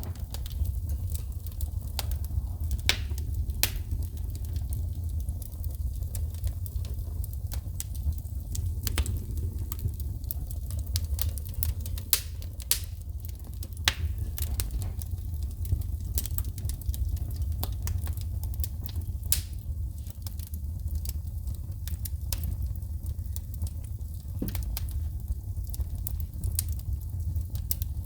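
Wood fire in a fireplace crackling, with irregular sharp pops and snaps from sparking logs over a steady low rumble.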